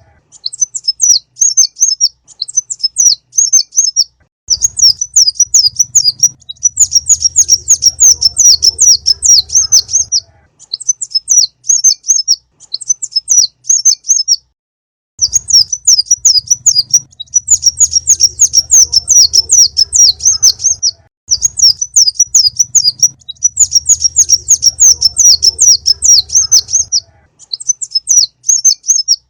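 Konin sunbird song from a lure recording: rapid, high-pitched chattering trills in phrases of one to several seconds, broken by short pauses and a longer pause about halfway through. A low hum sits under the louder phrases.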